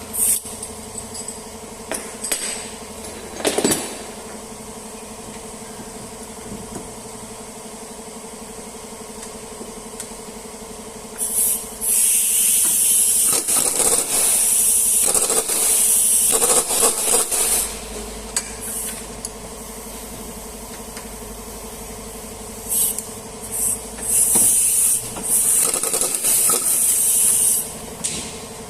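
A few light metallic clinks and knocks, then two long spells of loud, hissing, rattling air-tool noise, each several seconds long, as the front suspension ball joint is worked loose and removed. A steady hum sits underneath.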